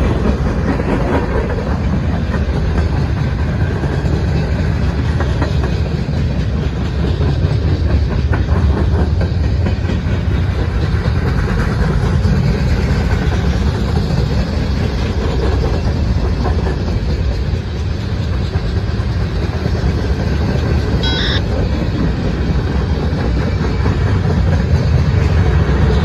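Freight train cars rolling past close by: a steady rumble of steel wheels on rail. A brief high squeak sounds about three-quarters of the way through.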